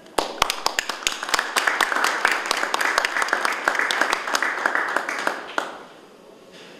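Audience applauding. The applause starts abruptly and dies away after about five and a half seconds.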